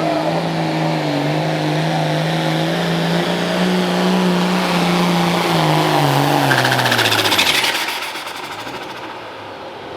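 Pulling tractor's turbocharged diesel engine running hard at high revs under load, then winding down about six seconds in as the pull ends, with a brief rush of hiss as the revs drop.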